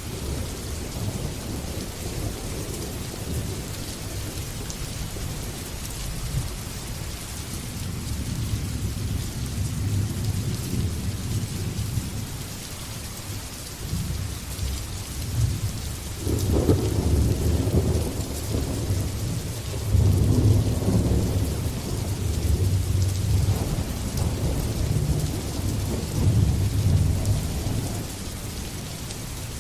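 Steady heavy rain with rolling thunder. The thunder swells a little past halfway and rumbles on for over ten seconds before easing near the end.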